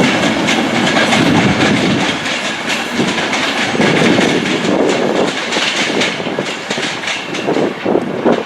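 A train passing close by, its wheels clattering rhythmically over rail joints, with a steady rush of rolling noise that eases slightly near the end.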